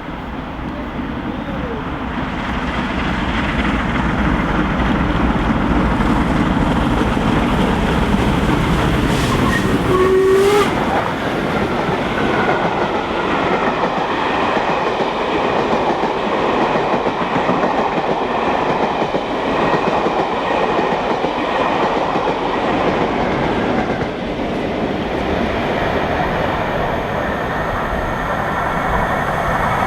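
LMS Royal Scot class three-cylinder 4-6-0 steam locomotive 46100 roaring past with its train, the noise building as it approaches, then carriage wheels clattering over rail joints.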